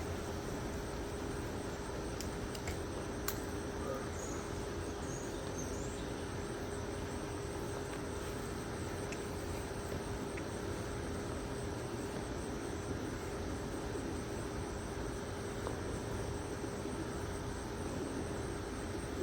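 Steady outdoor background noise with a constant low hum, a single sharp click about three seconds in, and a few faint high chirps soon after.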